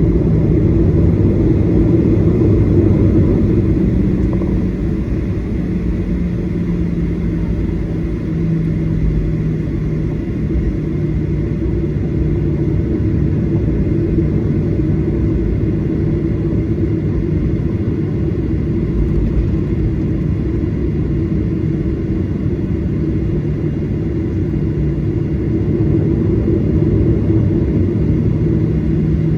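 Steady rumble and hum of a Boeing 737-800's CFM56 jet engines, heard from inside the passenger cabin, with a low humming tone that wavers slightly in pitch and a faint steady high whine.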